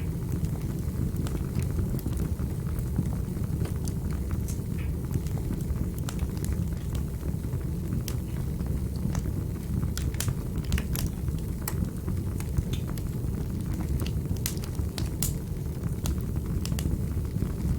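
Wood fire burning in a fireplace: a steady low rumble of flames with irregular sharp crackles and pops from the burning wood, several a second.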